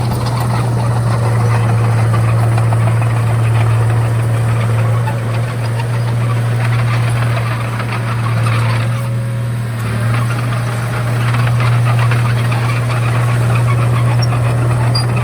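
Komatsu D31A bulldozer's diesel engine running steadily with a deep, loud hum, easing slightly for a moment about nine seconds in.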